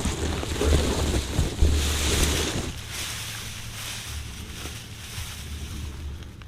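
Wind buffeting the microphone, a low rumble with hiss that is heavier for the first two and a half seconds and then eases.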